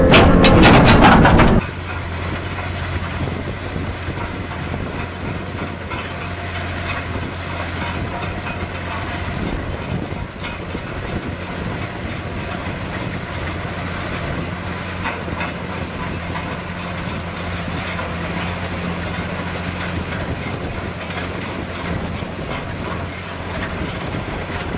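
Wood cracking and splintering loudly, cut off abruptly about a second and a half in. A heavy machine's engine then runs on with a steady low hum.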